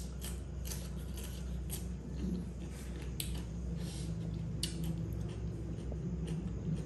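Crunching of a fresh cucumber slice being bitten and chewed close to the microphone: a run of crisp crunches that thin out after about five seconds, over a steady low hum.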